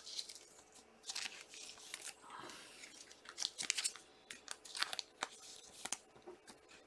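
Plastic wrapper of a trading-card pack crinkling and tearing, with cards being handled: a run of irregular crackles and rustles.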